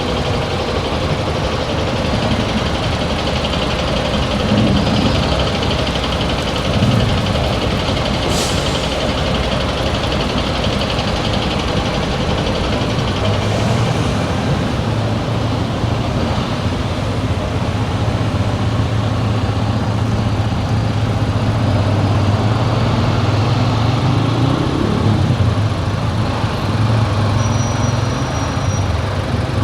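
Car engine and tyre noise while driving slowly through town streets: a steady low hum under road rumble, with a brief hiss about eight seconds in.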